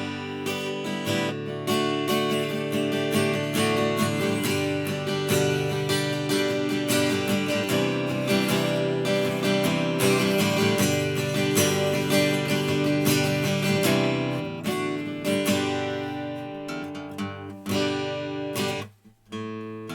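Seagull S6 mahogany acoustic guitar, freshly restrung, strummed in a steady run of ringing chords. The playing breaks off briefly near the end.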